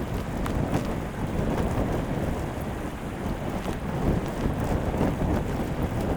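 Heavy rain falling on a Hilleberg Akto tent's flysheet, heard from inside the tent: a steady dense rush with many small drop hits.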